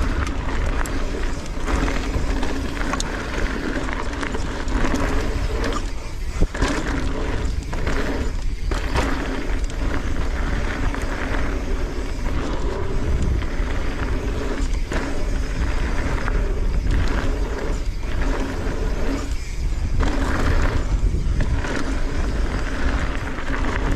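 Transition Sentinel mountain bike riding fast down a dry, loose dirt jump trail: tyres rolling and skidding on dirt and the bike rattling, under heavy wind rumble on the microphone. A sharp knock about six seconds in, typical of a jump landing.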